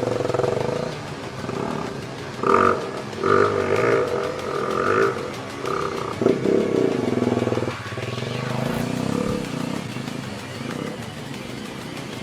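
Small off-road motorcycle engines revving up and down in bursts, loudest a few seconds in, with one rev falling away in pitch about halfway through.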